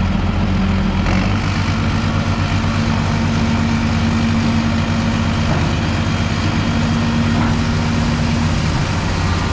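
Heavy truck engine running steadily at low revs, a deep, even hum that shifts slightly in pitch about a second in.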